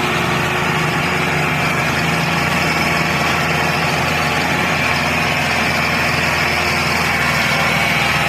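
Homemade mini tractor's small engine running steadily, one unbroken even tone.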